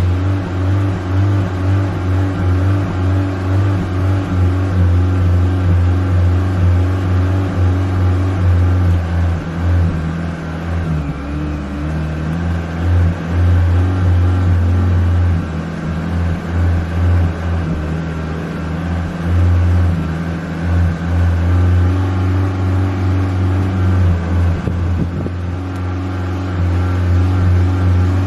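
Honda Civic engine running near idle as the gas pedal is pumped, its low note wavering and dipping in short blips, most unsettled in the middle, without big revs.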